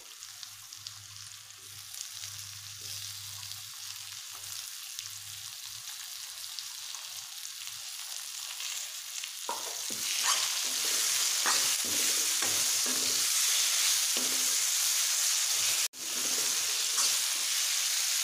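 Oil sizzling in a metal kadai as whole spices are fried and stirred with a steel spoon. About nine seconds in, tomato and bell-pepper pieces go in and the sizzling turns much louder, with the spoon scraping and clinking against the pan. The sound breaks off for an instant near the end.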